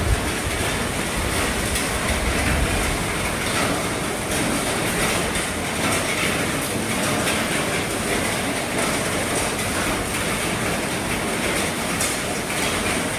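Heavy rain falling on an RV roof: a steady, dense patter of many small drop hits that holds even throughout.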